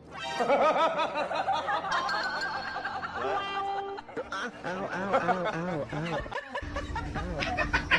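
Human laughter, a run of quick repeated bursts that carries on in waves.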